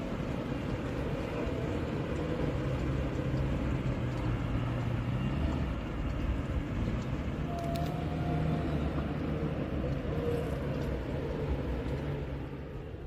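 A motor vehicle's engine running steadily under a haze of noise, its low pitch drifting slightly.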